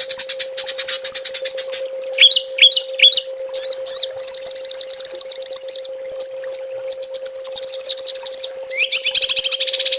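Small songbirds giving rapid, high-pitched 'tembakan' trills: fast dense rattling phrases, broken about two to three seconds in by a few short calls sweeping upward, then long fast rattles again. A steady faint hum runs beneath.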